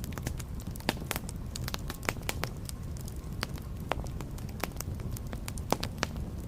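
Wood fire burning in a fireplace: a steady low rumble of flames with irregular sharp crackles and pops of the burning logs.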